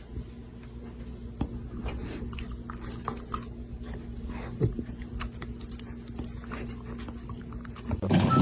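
A dog chewing and crunching: irregular small clicks and crunches over a steady low hum.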